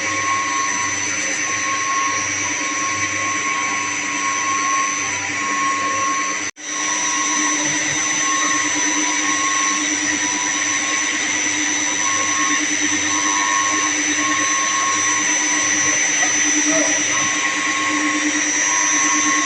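Steady whir of running pump-room machinery, with a high whine and a hum. It drops out for an instant about six and a half seconds in.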